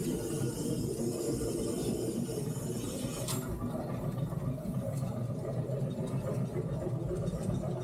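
Three-truck Shay geared steam locomotive running steadily, heard from inside its cab, with a sharp click about three seconds in.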